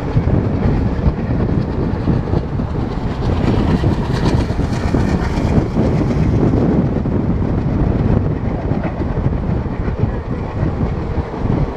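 Express train coaches running on the track, heard from on board: a steady rumble of wheels on rail with the clickety-clack of wheels over rail joints, and the clatter grows brighter and sharper for a couple of seconds about four seconds in.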